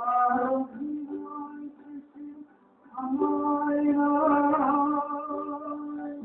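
A single voice singing long, drawn-out held notes, with a short break and then one long sustained note that wavers in the middle.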